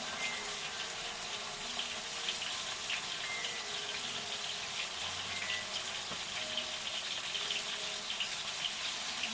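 Onions sizzling and crackling in hot oil in a pan, a steady frying hiss with small pops.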